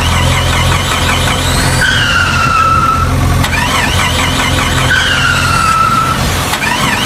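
Cartoon vehicle sound effect: a steady engine hum with a squeal that repeats about every one and a half seconds, each time a warbling squeal followed by a falling whine.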